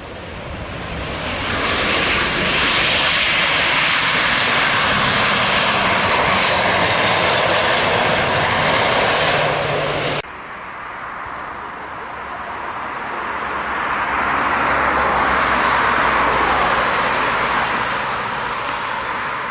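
Jet airliners on landing approach passing overhead: one builds to a loud roar and cuts off suddenly about halfway through, then a second one swells and fades.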